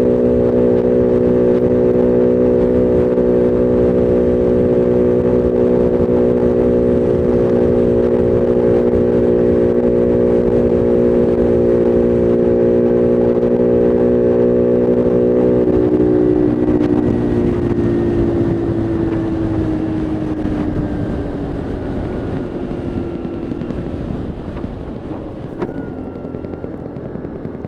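Bullit Heritage 125cc monkey bike's single-cylinder engine running at a steady speed, then its pitch and loudness fall gradually over the last third as the bike slows.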